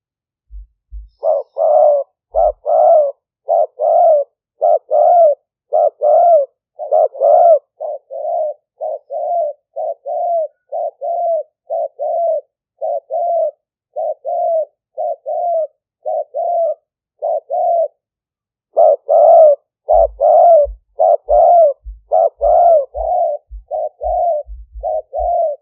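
Spotted dove cooing in a long run of short coos, about two a second. The coos are louder near the start and again near the end, softer through the middle, with a brief pause partway. Low thumps come alongside the louder stretches.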